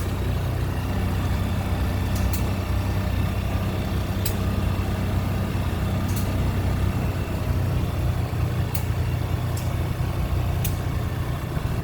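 Small vehicle's engine running steadily as it is ridden slowly, a low, even hum, with a few sharp clicks at irregular moments.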